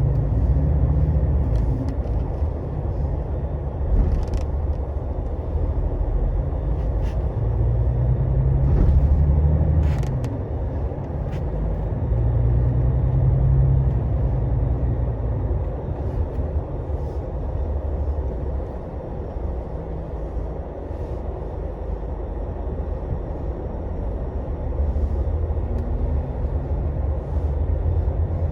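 Scania Astromega double-decker coach's diesel engine running under way with low road rumble, its low note swelling and easing several times as the bus pulls and changes speed. A few short clicks and brief hisses sound over it, around four seconds and ten seconds in.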